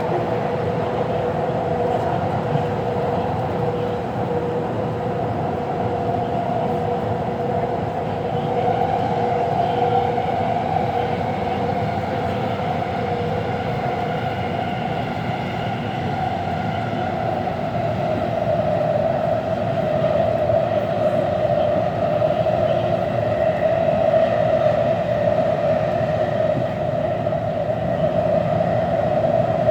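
Taipei Metro C341 train running between stations, heard from inside the car: a steady rumble of the train in motion with a faint whine above it that grows slightly stronger in the second half.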